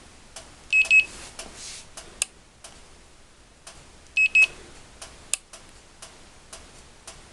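Handheld infrared temperature gun beeping as readings are taken: two quick double beeps a few seconds apart, with scattered light clicks between them.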